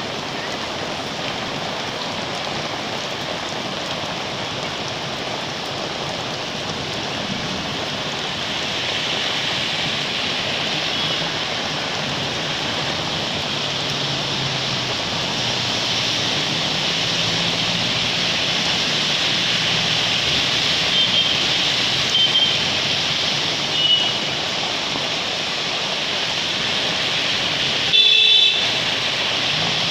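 Steady hiss of rain with a road vehicle's engine running and several short horn toots, the loudest near the end.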